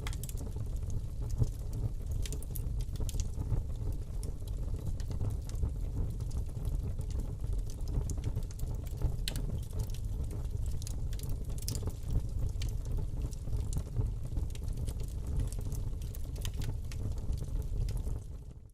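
Wood fire burning in a fireplace: a steady low rumble of flame with scattered crackles and pops from the burning wood. The sound cuts out abruptly at the very end.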